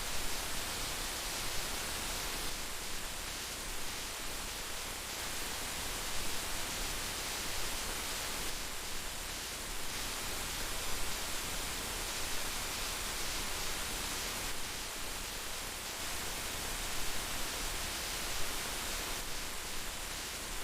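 Heavy rain falling steadily: an even hiss with small, irregular peaks in loudness.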